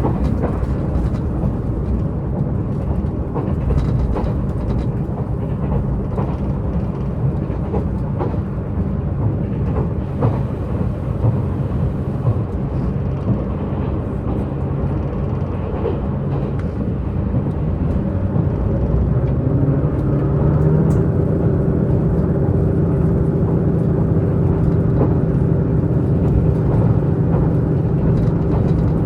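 Diesel multiple unit running, heard from inside by the side window: a continuous rumble of the underfloor diesel engine and wheels on the rails, with scattered clicks. About two-thirds of the way through the engine note climbs and then holds steady and a little louder.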